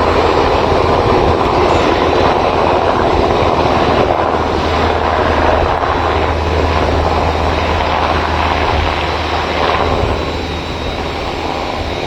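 Army helicopter flying, its rotor and engine making a loud, steady low drone under a rushing noise, easing off a little near the end.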